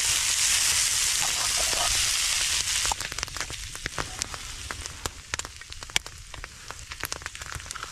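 Frozen corned beef hash sizzling loudly on a hot griddle. About three seconds in the loud sizzle stops abruptly, leaving scattered pops and crackles.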